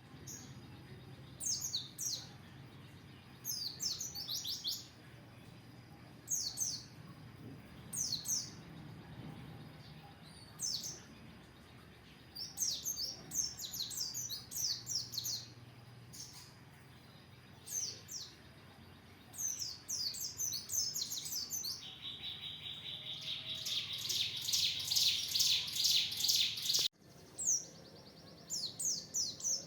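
Pleci (white-eye, Zosterops) song: short clusters of high, quick chirps every second or two, swelling near the end into a dense, rapid run of notes that breaks off sharply before the chirping resumes.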